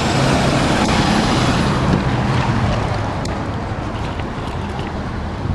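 Motor vehicle driving: a steady low engine hum under loud road and wind noise that eases off slightly over a few seconds.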